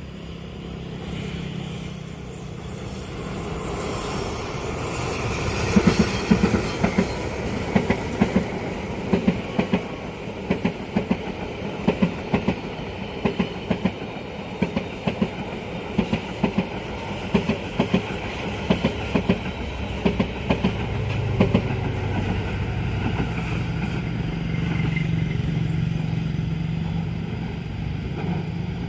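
Train passing at speed: the sound builds over the first few seconds, then its wheels clatter over the rail joints in rapid clusters of clicks for about fifteen seconds. The clatter eases off past the middle and a steady engine hum is left.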